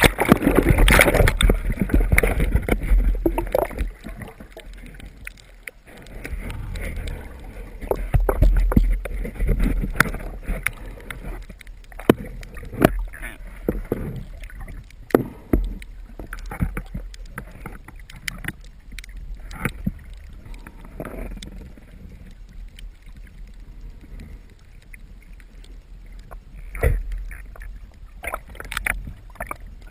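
Muffled underwater noise picked up by a submerged camera: a low rumble of moving water, with scattered sharp clicks and knocks. The rumble is strongest in the first few seconds and again around a third of the way in.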